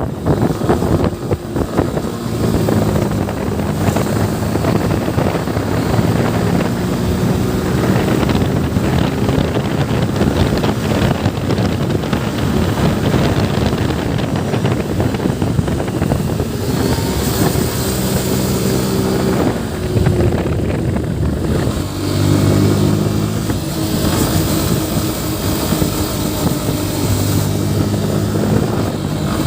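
Yamaha FZ V3's 149 cc single-cylinder engine running on the move, its engine speed going up and down several times, with wind noise over the microphone.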